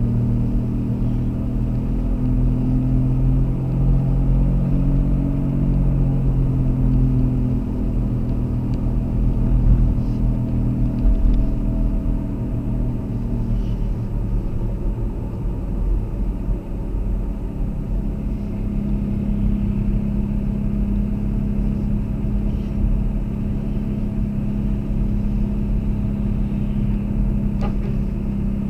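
A car's engine and road noise while driving, the engine note rising over the first few seconds, dropping about twelve to fourteen seconds in, then holding steady.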